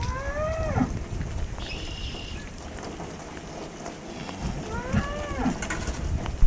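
Belted Galloway cattle mooing twice, each a short call that rises and falls, over a background of rain; a sharp knock comes right at the end.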